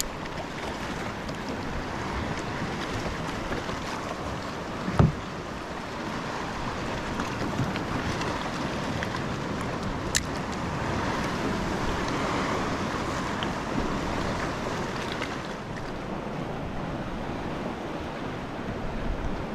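Sea water sloshing and lapping with wind on the microphone, steady throughout; a single loud knock about five seconds in and a short sharp click about ten seconds in.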